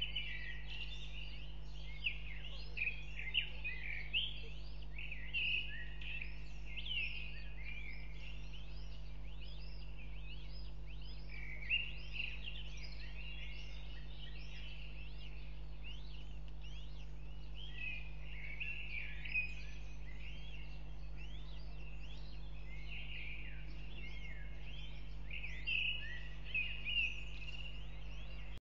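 Birds chirping and twittering almost without pause, many short high calls overlapping, over a steady low hum.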